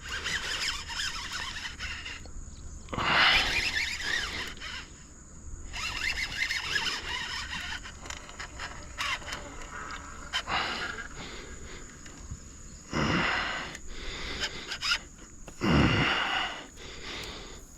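Several short bursts of water splashing a few seconds apart as a hooked bass thrashes at the surface in water grass beside a kayak.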